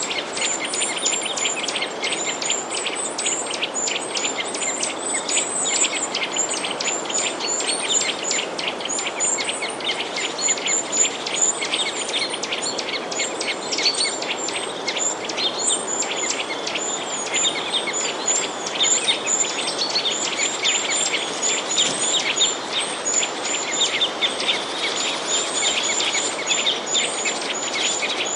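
Many small birds chirping at once, a dense stream of quick high chirps that goes on without a break, over a steady background hiss.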